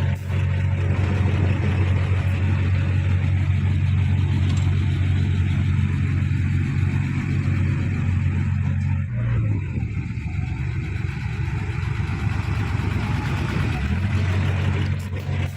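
Heavy diesel engine of earthmoving machinery running steadily under load. Its note changes about nine seconds in and settles back a few seconds later.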